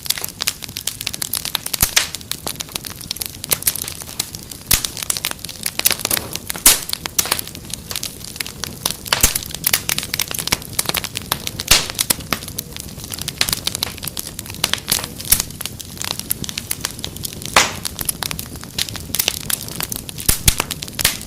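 Wood fire crackling in a fireplace: a steady stream of irregular sharp pops and snaps over a low rumble of burning.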